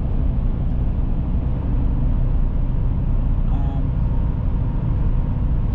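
Steady low rumble of road and engine noise inside the cab of a Chevrolet Silverado pickup driving along.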